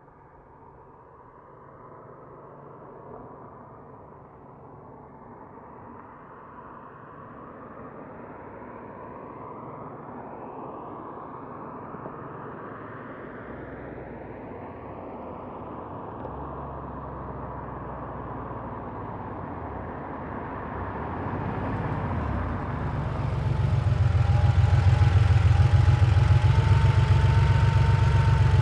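1990 Porsche 911's air-cooled flat-six approaching at moderate speed, growing steadily louder and clearer, then pulling up with a brief drop in engine note about three quarters of the way through and settling into a loud, steady idle close by for the last few seconds.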